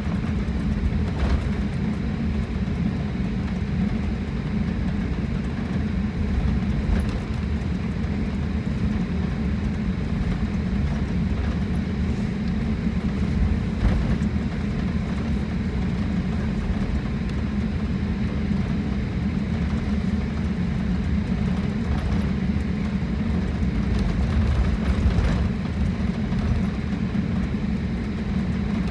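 Steady low rumble of an airliner heard inside the passenger cabin, with a few faint knocks here and there.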